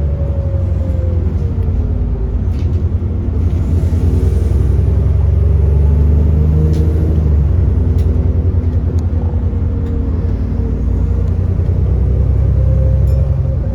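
Alexander Dennis Enviro400 double-decker bus heard on board: its diesel engine and automatic transmission running steadily under way as a deep drone. A whine drops in pitch early on and climbs again near the end, with a few small rattles and clicks.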